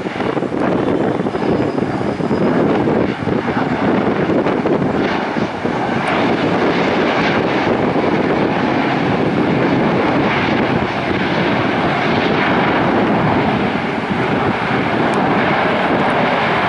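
Airplane engines passing: a loud, steady rush of engine noise that fills out and grows brighter about five seconds in, then holds. Wind buffets the microphone.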